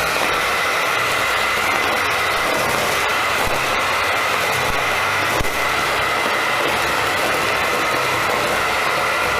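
Philips vacuum cleaner running steadily with a high whine, sucking up dust and rubber bands, with a few clicks and one sharper knock about halfway through.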